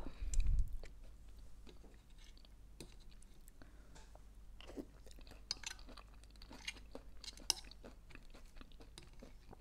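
Close-miked chewing of a green salad with pine nuts: scattered small crunches and wet mouth clicks. A dull low thump comes right at the start.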